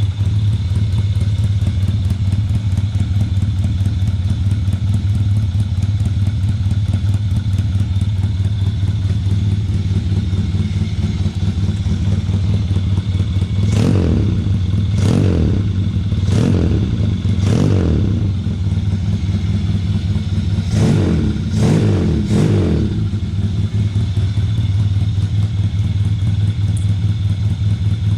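Yamaha Jupiter moped with a custom two-cylinder engine idling steadily, with a smooth, dense note. Past the halfway point it is given seven quick throttle blips: four about a second apart, then three more a few seconds later.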